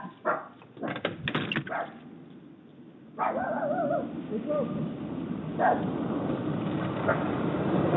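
A dog barking on and off, in short sharp barks, with a steady hiss from about three seconds in.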